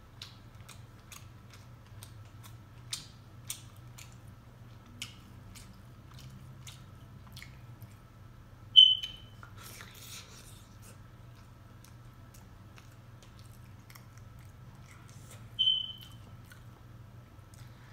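Close-up mouth sounds of eating a seafood boil: chewing with small wet clicks and smacks, mostly in the first half. Two short high-pitched squeak-like tones cut through, the louder about 9 s in and another about 16 s in.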